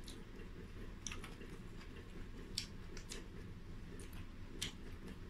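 Close-up chewing of crispy fried chicken wings, with about five sharp, crisp crunches spread through.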